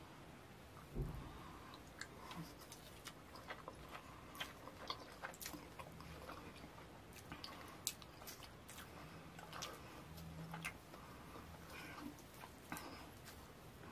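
Close-miked eating sounds of fufu with slimy ogbono soup taken by hand: wet, sticky chewing with many short mouth clicks and smacks. There is one dull thump about a second in.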